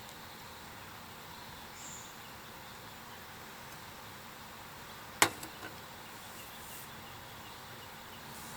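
Steady outdoor background hiss, broken about five seconds in by one sharp knock and then a couple of faint ticks.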